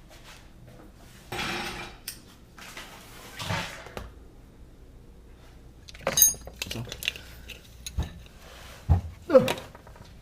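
Metal tools and parts clinking and clattering as they are handled: two rustling bursts in the first four seconds, a bright ringing clink about six seconds in, then scattered knocks near the end.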